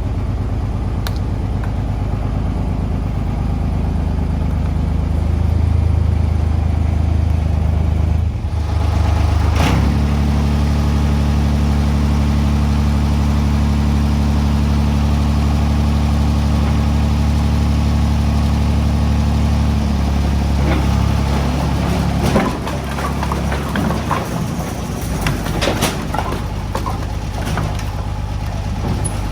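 Tractor engine running steadily, its pitch dropping briefly and then settling higher about a third of the way in. In the last quarter the engine runs lower, with repeated knocks and clatter over it.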